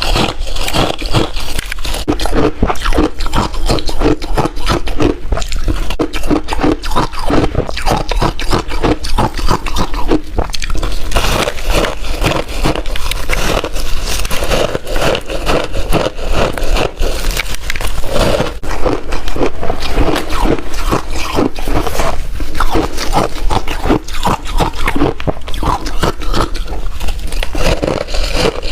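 Ice being bitten and chewed: a steady run of loud, rapid crunches.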